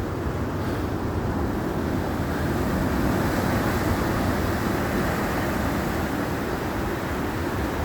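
Sea waves surging and breaking, heard as a steady, deep rushing wash, with wind rumbling on the microphone.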